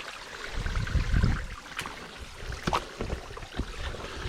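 Small waterfall and creek water running steadily, with a few low thumps and sharp clicks over it.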